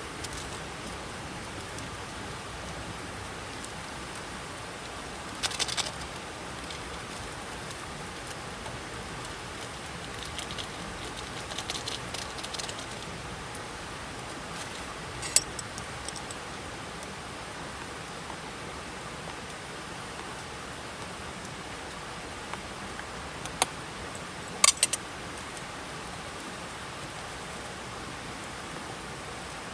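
A steady even hiss of rain or running water, with a few short clinks and rattles: a cluster about five seconds in, a light patter around ten to thirteen seconds, and sharp single clicks a third and four-fifths of the way through.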